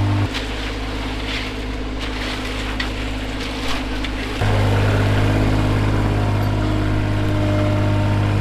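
A heavy engine running steadily with a low hum. It throttles down about a quarter second in and comes back up about four and a half seconds in.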